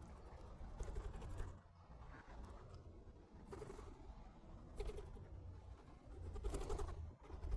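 Birds giving a few short, low calls with pauses between them.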